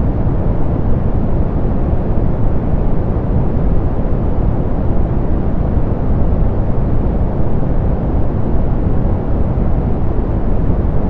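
Steady soft pink noise, filtered so it is weighted to the low end with little hiss: an even, unchanging rush.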